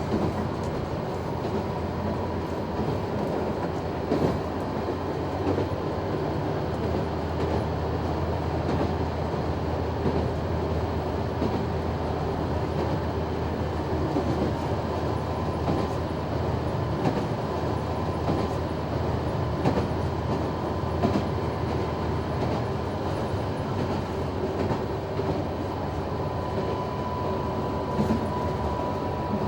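Noto Railway NT100 diesel railcar running at speed, heard from inside: a steady engine drone with a thin steady whine, and wheels knocking now and then over rail joints.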